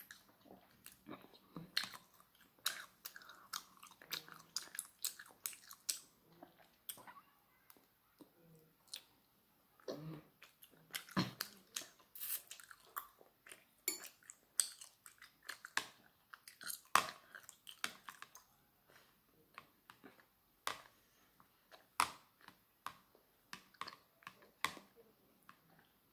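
Close-up chewing and mouth smacks of a person eating chewy tteokbokki rice cakes, mixed with irregular sharp clicks of metal chopsticks against the plate and bowl.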